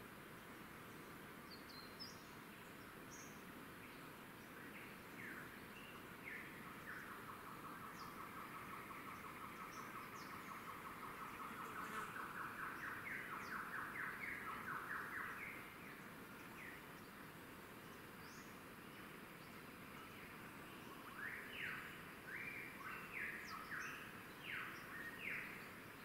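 Birds calling in the bush over a faint steady hiss. One bird gives a long run of rapid repeated notes that climbs in pitch and grows louder, then stops. A few seconds later comes a series of short, sharp calls.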